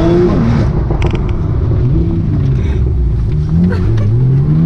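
Porsche 911 Turbo (991) twin-turbo flat-six, tuned to about 800 hp, heard from inside the cabin under hard acceleration. The revs drop in an upshift just after the start, then climb steadily again from about three and a half seconds in.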